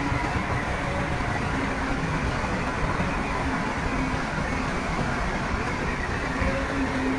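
Heavy diesel earthmoving machinery running steadily, with faint pitched whines coming and going over the engine noise.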